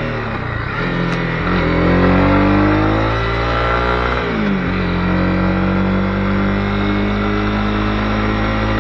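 Honda CB250R's single-cylinder engine revving up under acceleration. Its pitch climbs for a couple of seconds, drops sharply at a gear change about four seconds in, then holds steady at cruising speed.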